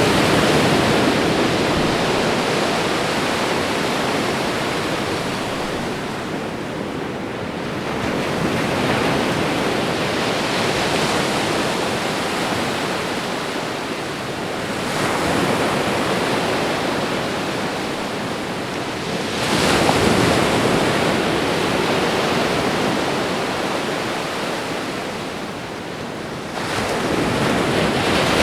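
Ocean waves washing onto a shore: a steady rush of surf that swells as each wave breaks and fades as it draws back, about every five to seven seconds.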